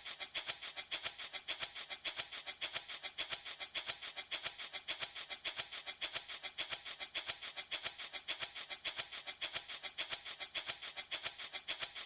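Handmade baby rattle shaken steadily in an even rhythm, about five shakes a second, with a bright, hissy rattle of small beads.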